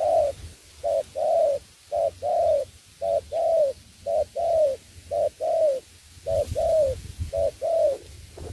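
Spotted dove cooing: a phrase of a short note and a longer, down-curving coo, repeated about once a second, eight times. Low rumbling noise comes in near the end.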